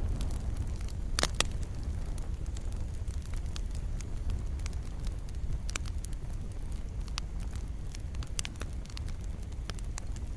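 Wood fire burning, with a steady low rumble of the flames and irregular sharp crackles and pops throughout, a louder pop about a second in.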